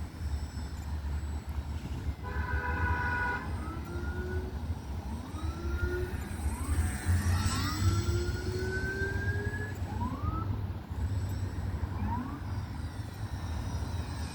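Small RC plane's electric motor and propeller whining, its pitch rising several times as the throttle is advanced, one long rise near the middle, over a steady low rumble. About two seconds in, a brief steady horn-like tone.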